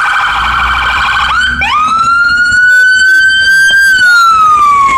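Emergency vehicle siren: a fast warbling yelp for a little over a second, then it switches to a wail that rises, holds steady and slowly falls in pitch near the end.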